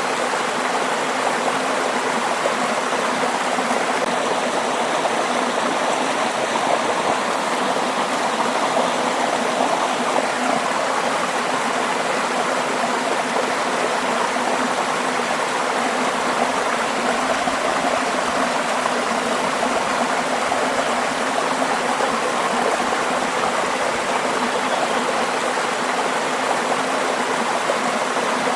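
Waterfall and the stream below it, water rushing and splashing in a steady, even wash of noise.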